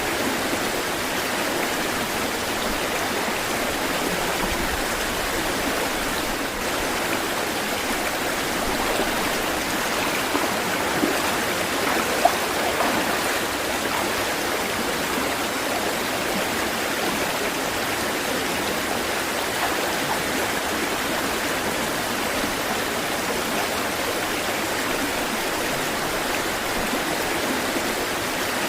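Steady rush of flowing water, with two brief louder splashes near the middle.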